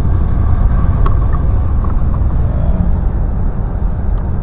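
Car driving on snow-covered roads, a steady rumble of engine and tyres heard from inside the cabin, with a faint click about a second in.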